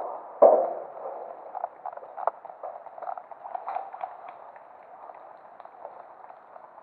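A knock about half a second in, then scattered light clicks and knocks over faint steady background noise.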